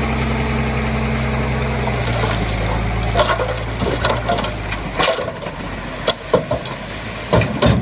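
Heavy construction machine's diesel engine running steadily, then dropping away about four seconds in, with sharp metallic clanks and knocks coming several times in the second half.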